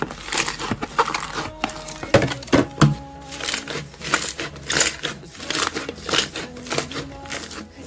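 Slime being squeezed and worked by hand, giving irregular crackling, crunching sounds a few times a second, over quiet background music.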